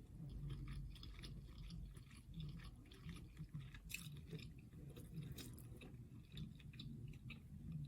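Close-miked chewing, with irregular wet clicks and smacks of the mouth.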